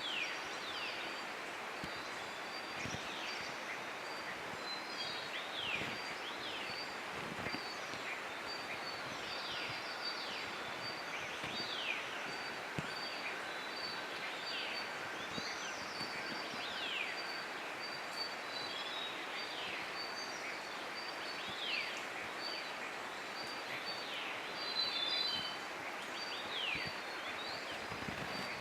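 Wild birds calling: many short whistles sliding downward in pitch, over a steady series of short high notes and a constant background hiss.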